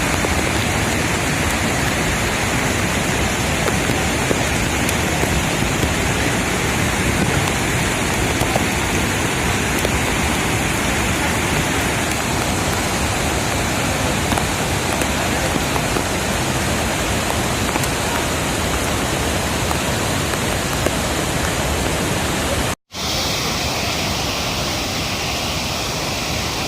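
Waterfall swollen by heavy rain, a loud, steady rushing of water. The sound cuts out for an instant near the end, then carries on.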